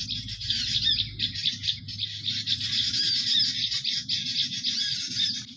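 Bird-lure call: dense, rapid, high-pitched chirping of small songbirds, over a low rumble. The chirping stops abruptly near the end.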